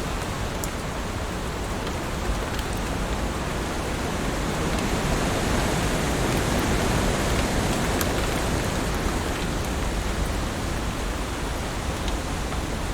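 Heavy rain falling steadily, a dense even hiss with a few sharper drop ticks, swelling a little in the middle.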